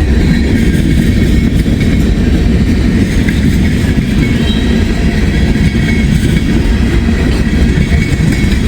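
Freight train cars rolling past close by: a steady, loud rumble of steel wheels on rail, with faint high squeals from the wheels.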